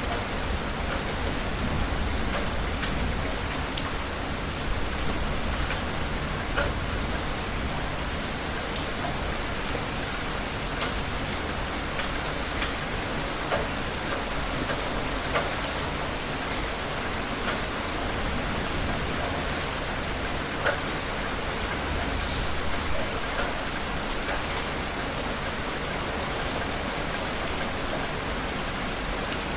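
Heavy rain falling steadily, with scattered sharper drop impacts standing out now and then.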